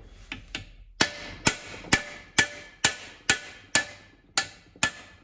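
Steady hammer blows on a socket driving against an old bearing race to knock the PTO bearing out of the Allis-Chalmers B transmission case. About nine metal-on-metal strikes, roughly two a second, start about a second in, each ringing briefly.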